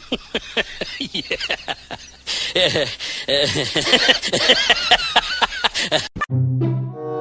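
A rapid run of short, high-pitched animal squeals and chirps, many a second. About six seconds in it cuts to a honking horn-like sound effect of steady tones.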